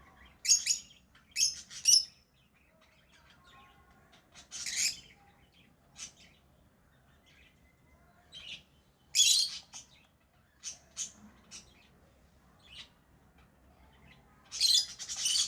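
Lovebirds chirping: loud, shrill, high-pitched calls in short clusters every few seconds, with fainter chirps between them.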